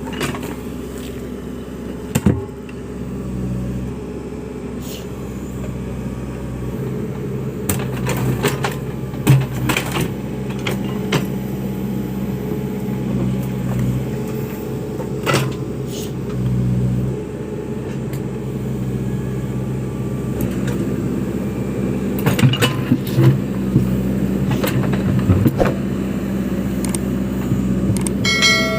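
Backhoe loader's diesel engine running steadily, growing louder at times, with occasional sharp knocks and clanks.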